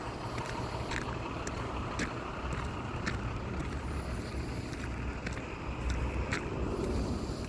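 Snowstorm wind buffeting the microphone as a steady low rumble, with faint sharp clicks about once a second.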